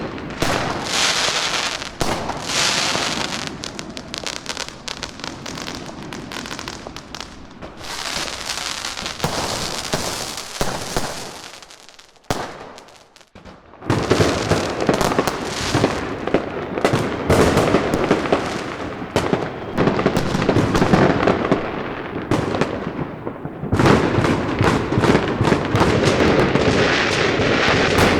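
Fireworks and firecrackers going off in a dense, continuous run of bangs and crackling. It dies down to a brief lull about halfway through, then starts up again just as thick.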